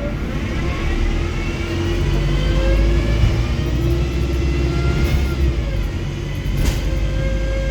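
Wrightbus StreetDeck HEV hybrid bus accelerating, its Mercedes-Benz OM934 diesel giving a heavy low drone under several drivetrain whines that rise over the first five seconds. There is a sharp click about six and a half seconds in.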